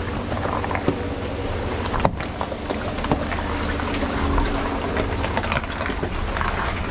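Ram 1500 Rebel pickup crawling slowly over rocks on a rough trail: a steady low engine rumble, with sharp knocks and clicks from the truck working over the rocks, the loudest about two seconds in.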